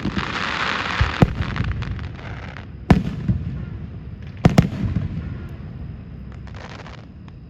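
Aerial fireworks bursting: a series of sharp booms every second or two, with a crackling hiss from the bursting shells in the first couple of seconds and a short crackle near the end.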